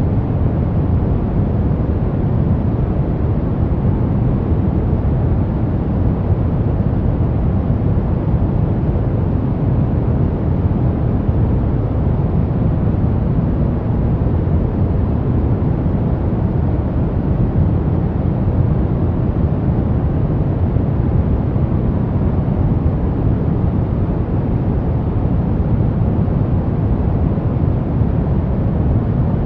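Steady pink noise: an even, unbroken hiss, heaviest in the low end, with no change in level.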